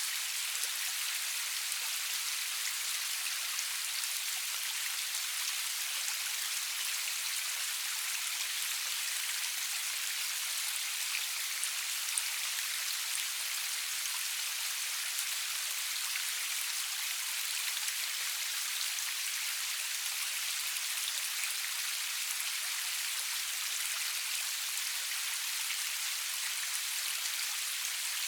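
Steady rain falling: an even, high-pitched hiss of drops with many small individual drop ticks, and no thunder.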